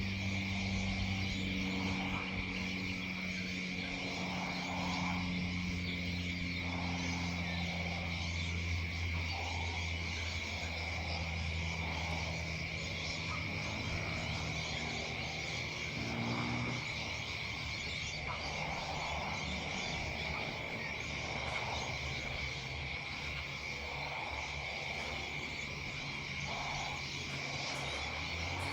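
Frogs calling in an evening chorus, soft croaks repeating every second or two over a steady high trill. A steady low drone runs beneath, shifting pitch a couple of times.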